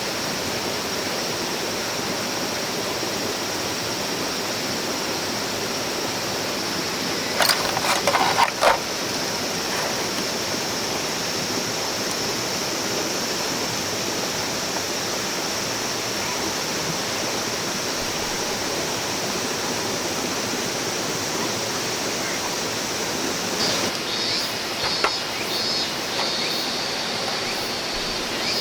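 Steady rush of a flowing mountain stream, with a short cluster of knocks about eight seconds in and a quick high pulsing near the end.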